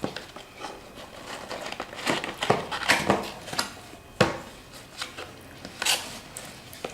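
Packaging crinkling and rustling as a product is taken out of it by hand, with scattered light clicks and one sharp knock about four seconds in.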